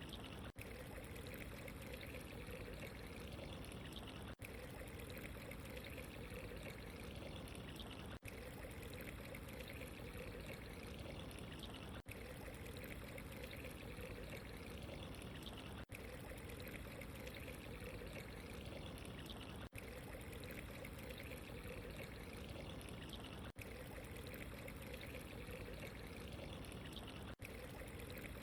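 Steady running, trickling water, with a very brief dip in level about every four seconds.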